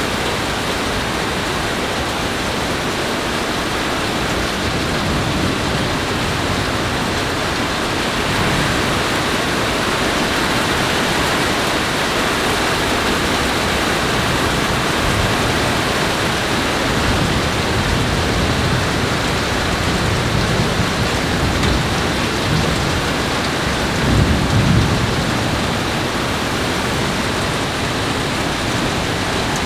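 Steady heavy rain during a thunderstorm, with low rolls of thunder in the second half, the loudest about three-quarters of the way through.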